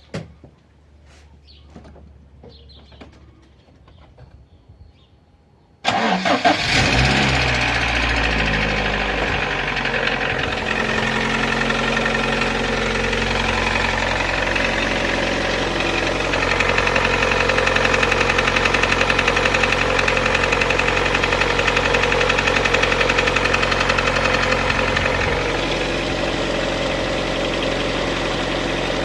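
Lada Priora four-cylinder petrol engine started from cold: a few faint clicks, then it cranks and catches about six seconds in and idles with a steady knock, dropping slightly in level near the end. The owner cannot tell whether the knocking comes from the hydraulic valve lifters or the pistons.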